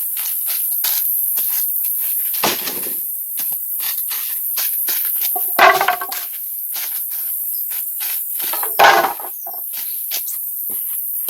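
Irregular sharp knocks and taps, with three louder, longer scraping bursts spread through, over a steady high-pitched hiss.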